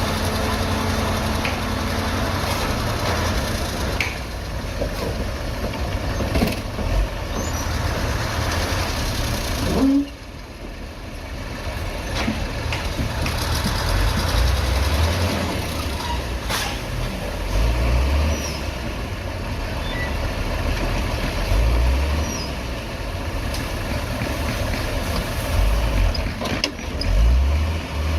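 Heavy diesel earth-moving machinery, a dump truck and a bulldozer, working. The engines run with a deep rumble that swells under load several times, with a few sharp knocks and a sudden drop in level about ten seconds in.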